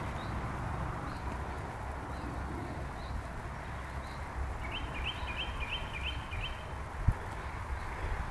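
A steady low rumble, with a bird singing a quick run of about six short rising notes about halfway through and a few fainter single chirps before it. A single sharp thump near the end.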